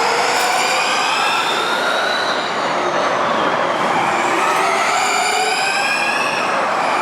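Formula E electric race cars accelerating past, the high-pitched whine of their electric motors and gear trains rising in pitch over tyre and road noise. One whine climbs through the first half, and a second rises from about halfway in.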